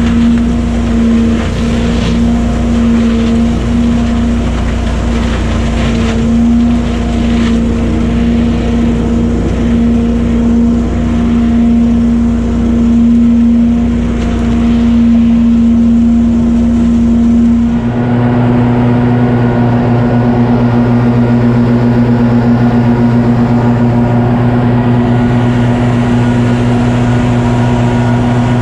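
Gas engine of a Billy Goat debris loader running steadily at speed, with some scattered crackling in the first half. About two-thirds of the way through, the sound changes abruptly to a different, lower-pitched steady engine hum.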